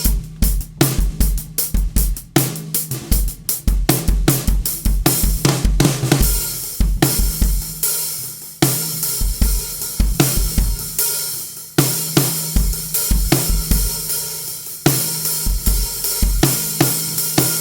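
Drum kit groove built around a 14" x 7" London plane wood snare drum tuned very low, unmuffled, with Remo Ambassador coated batter and hazy snare-side heads, the shell's low ring sustaining between strokes. Bass drum, hi-hat and cymbals play along, with a stretch of washy cymbal in the middle.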